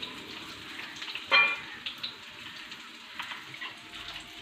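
Chicken sizzling as it fries in oil in a pan, a steady hiss with light clicks of a utensil, and one louder ringing clink about a second and a half in.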